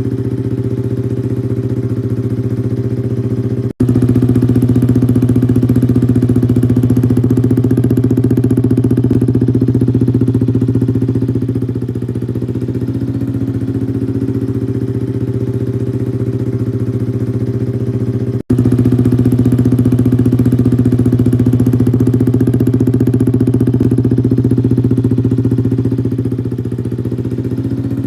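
Yamaha R15 V3's single-cylinder engine running at a steady idle through an aftermarket SC Project exhaust. The sound cuts out abruptly twice, and after each cut it runs a little louder for several seconds before easing back.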